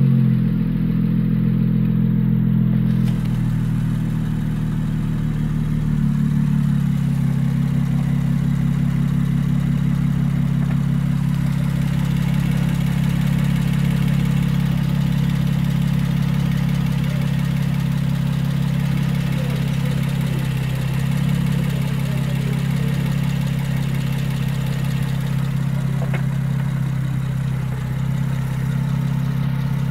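Honda J30A 3.0-litre V6 idling steadily just after being started, its idle settling slightly in the first several seconds and then holding even.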